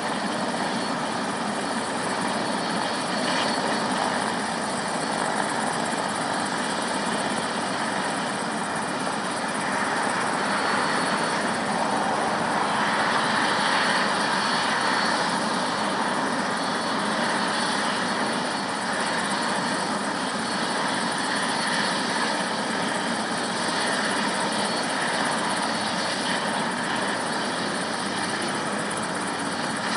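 Helicopter's engine and rotor running steadily, with no change in level.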